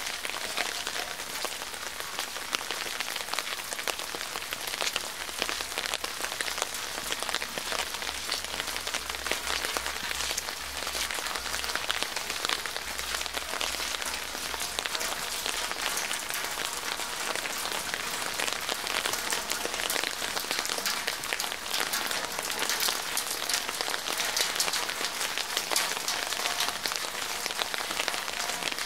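Steady rain falling on hard town surfaces, a dense patter of many separate drops.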